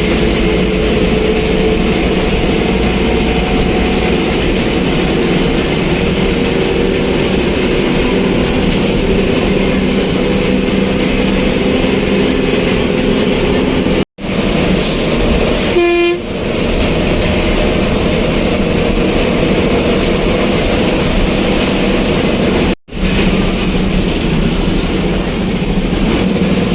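Steady noise of a moving vehicle, with a short horn honk about 16 seconds in. The sound breaks off abruptly twice, for a moment each time.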